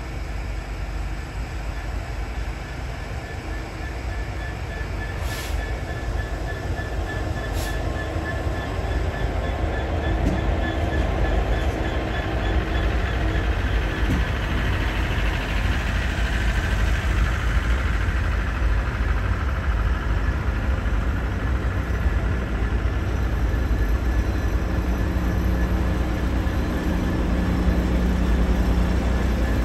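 A diesel-hauled train of tank wagons, led and tailed by Class 66 freight locomotives, rolls past with continuous wheel and rail noise, growing louder about ten seconds in. Near the end the trailing Class 66 passes close, its two-stroke diesel engine adding a deep steady drone.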